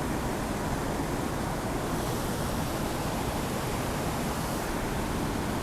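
Waterfall rushing steadily, running high with winter water.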